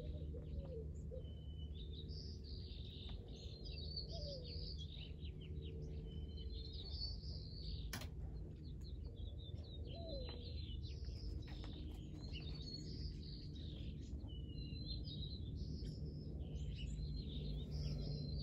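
Small birds chirping and twittering again and again, over a steady low hum. A single sharp click sounds about eight seconds in.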